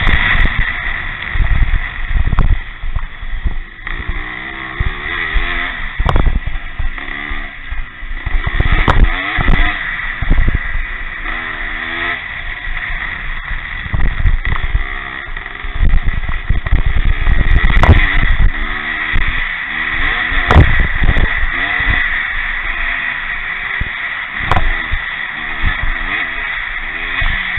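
Pre-65 motocross motorcycles racing, their engines revving up and down over and over as they accelerate and shut off around the track.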